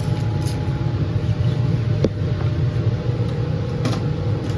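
Laminar flow hood's blower running with a steady low roar. Two light clicks come about two and four seconds in.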